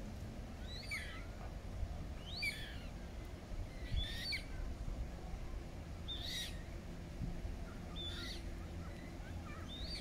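A small bird calling over and over: short high chirping phrases about every one and a half seconds, over a steady low background rumble.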